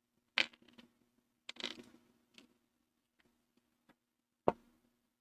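Scattered clicks and taps of a small screw and screwdriver being handled against a graphics card's metal bracket during reassembly: a few light ticks, with the sharpest knock near the end.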